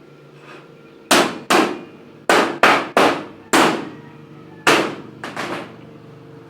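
Hammer blows: seven hard strikes at an uneven pace, each with a short fading ring, then two lighter taps near the end.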